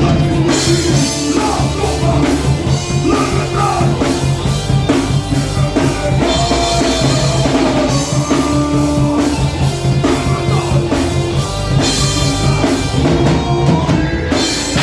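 Heavy metal band playing loud: distorted guitars and a driving drum kit, with held guitar notes over a steady beat.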